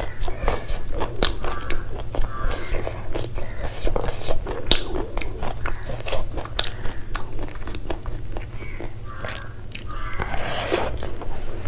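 Close-miked wet chewing and mouth smacking of a person eating rice and curry by hand, a rapid, irregular run of sharp mouth clicks, over a steady low hum.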